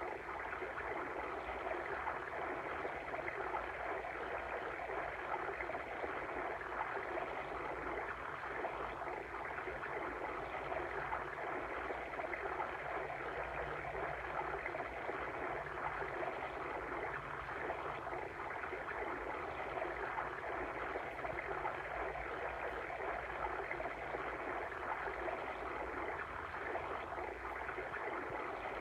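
Steady flowing-water stream ambience, an even rushing and gurgling without breaks.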